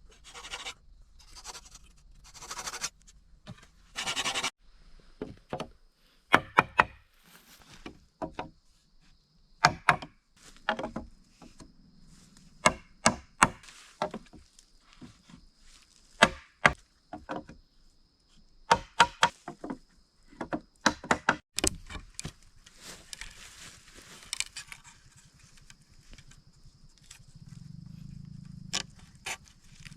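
Wood, most likely bamboo, being chopped with sharp blade strikes in irregular clusters of two to four blows, after a few rustling swishes at the start. A faint steady high tone runs under most of it.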